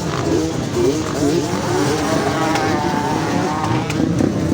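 Yamaha Banshee 350 two-stroke twin engine revving in quick blips, its pitch rising and falling repeatedly, with other engines running alongside.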